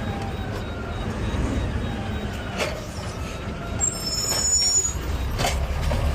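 Garbage truck engine running at low speed, with a brief high squeal about four seconds in and a couple of knocks.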